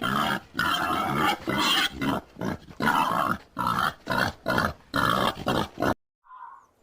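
Pig grunting in a rapid series of short calls that get shorter and quicker before stopping about a second before the end.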